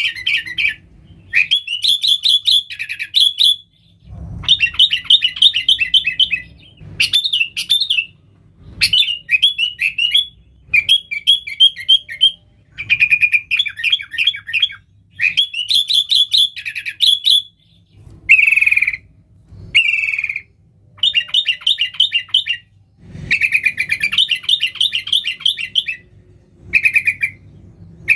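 Sooty-headed bulbul (kutilang) singing energetically: phrase after phrase of rapid chattering notes, each phrase lasting one to two seconds with short pauses between them.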